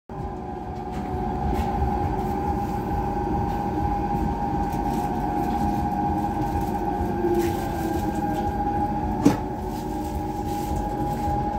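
Metre-gauge electric train running, heard from inside the carriage: a steady rumble of wheels on rail under a constant high whine. There is one sharp click about nine seconds in.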